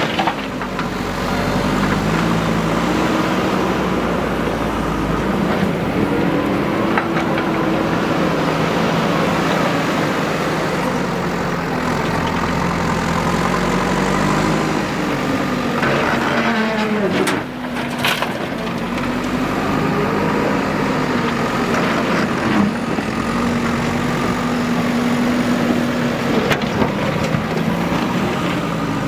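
Diesel engine of a backhoe loader working, its pitch rising and falling as it revs up and settles under load. A little past halfway the sound dips briefly, followed by a few sharp knocks.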